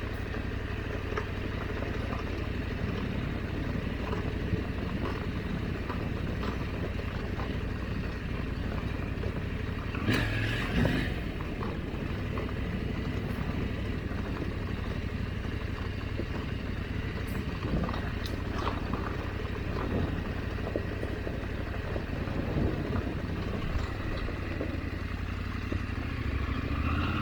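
KTM 890 Adventure's parallel-twin engine running steadily at low trail speed, with scattered clatter and knocks over rocky ground and a louder burst about ten seconds in.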